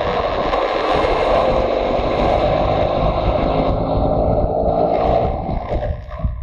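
Motorcycle engine running while riding, with wind rushing over the microphone; near the end the engine quietens briefly as the throttle is eased.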